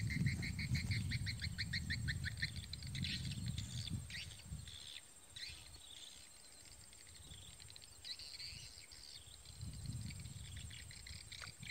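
Small birds calling: a fast trill of repeated high chirps for the first couple of seconds, then scattered short falling chirps and more chirping near the end. A low rumble sits under the first few seconds and returns near the end.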